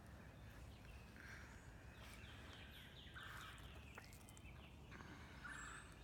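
Near silence: faint outdoor background with faint, distant bird calls, including a quick run of chirps a couple of seconds in.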